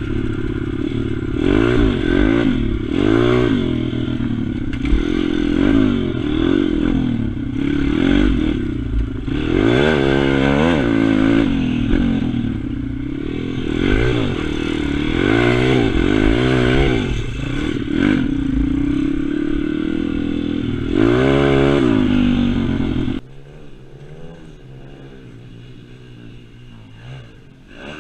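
Pit bike's single-cylinder engine revving up and down again and again as it is ridden hard, pitch climbing and falling with each burst of throttle. Near the end the sound drops suddenly to a much quieter engine note.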